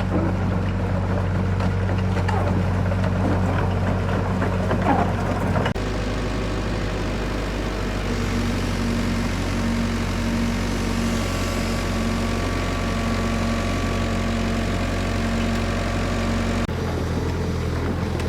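A motor or engine running steadily with a constant low hum; the sound changes abruptly about six seconds in and again near the end.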